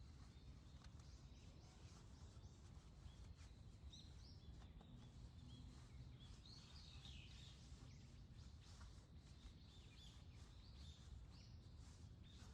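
Near-silent outdoor ambience: a low steady rumble with faint, scattered bird chirps, a small cluster of them about six to seven seconds in.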